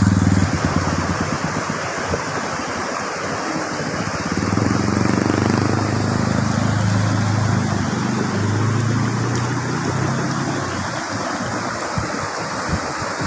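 Steady rush of water from a mountain waterfall and its stream, with a low rumble of wind buffeting the microphone.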